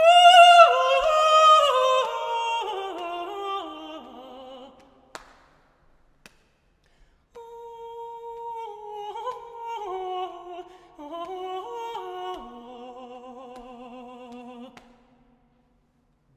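Unaccompanied solo voice singing: a loud high phrase that steps downward over about five seconds, ending in a single click, then after a short pause a quieter phrase with vibrato that steps down to a low held note.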